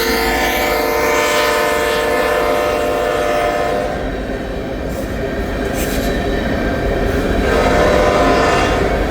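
A Canadian National freight locomotive's horn sounds a long chord that stops about four seconds in, then a second, shorter blast near the end, over the steady rumble of the train rolling past.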